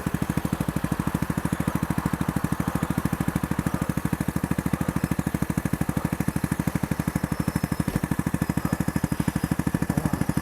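Lexmoto Hawk motorcycle's small single-cylinder engine idling with a rapid, even pulse.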